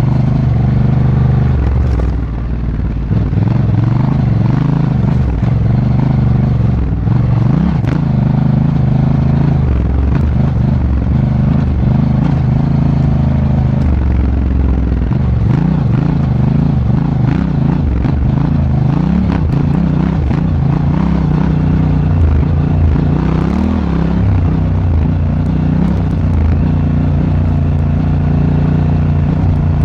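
Honda Africa Twin motorcycle engine heard from on board while riding, its pitch rising and falling with the throttle every second or two, with scattered clatter and knocks.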